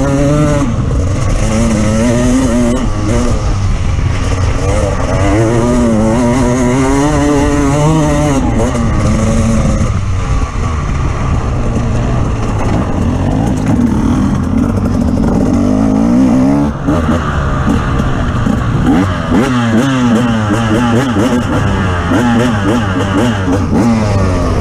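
Off-road vehicle engine running hard, its pitch rising and falling again and again as the throttle is worked over rough ground.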